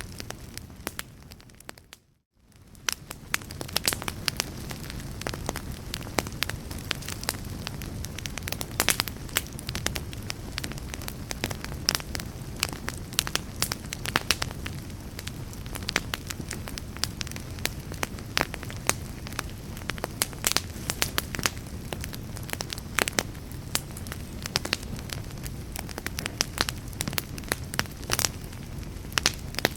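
Fire crackling, with many sharp snaps and pops over a steady low rumble. About two seconds in it fades briefly to silence and then swells back.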